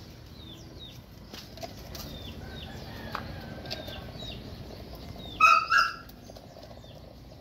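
Small birds chirping over and over in short, downward-sliding notes. About five and a half seconds in come two short, loud, high-pitched calls.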